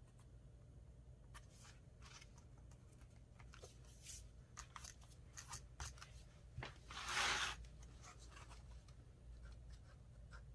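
Faint paper handling while gluing a paper cutout into a journal: scattered soft ticks and rustles, with one louder scratchy rub about seven seconds in.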